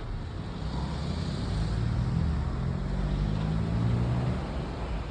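Steady low hum of an electric commuter train standing at the platform.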